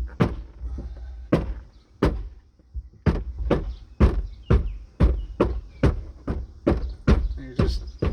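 Light taps on the plastic interior trim panel of a Prius rear hatch, seating its push-pin clips: a few spaced knocks, then a steady run of about two a second.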